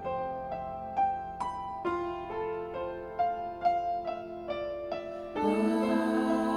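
Piano playing a slow melody of single struck notes, about two a second, each ringing out. About five seconds in, fuller sustained tones come in beneath it.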